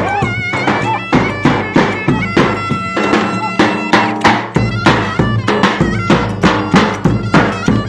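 Turkish village wedding folk music: a shrill reed wind instrument plays a held, ornamented melody over a steady, loud drumbeat.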